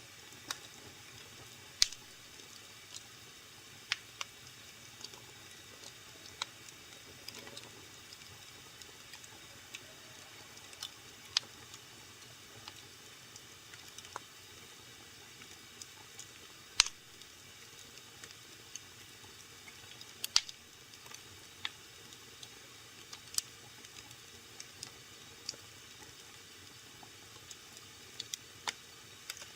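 Wood fire burning in a fireplace, crackling with irregular sharp pops and snaps over a low steady hiss; a few pops are much louder than the rest.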